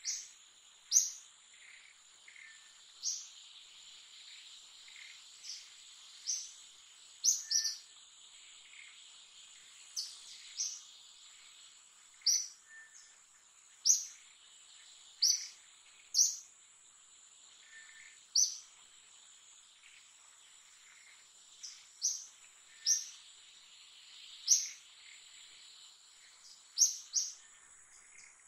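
Forest ambience: short, sharp rising chirps, likely a bird, repeating irregularly every second or two and sometimes in quick pairs, over a steady high-pitched insect drone.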